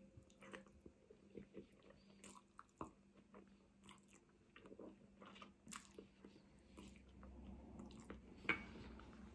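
Faint chewing of a mouthful of spaghetti bolognese: scattered small wet mouth clicks, with one sharper click near the end.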